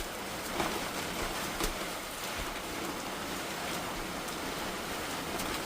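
Heavy monsoon rain pouring steadily, with a few sharper drop impacts in the first couple of seconds.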